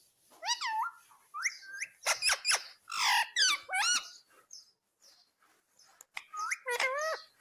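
Indian ringneck parrot calling: short, sharp squawks and swooping whistled calls in two bursts, with a pause of about two seconds in the middle.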